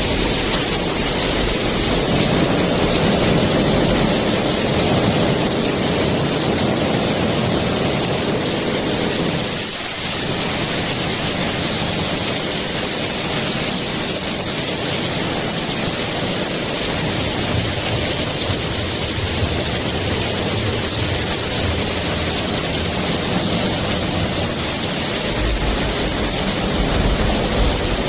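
Heavy rain falling in a steady hiss, with a low rumble of thunder rolling in near the end.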